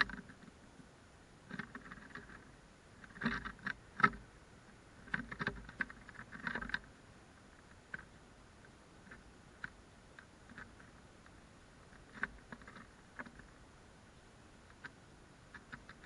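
Irregular light taps and knocks in small clusters, busiest in the first half, then scattered single ticks.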